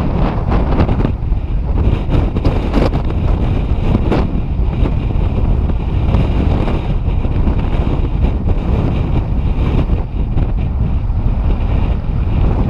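Strong wind buffeting the microphone: a loud, continuous rumble with rough flutter and gusts.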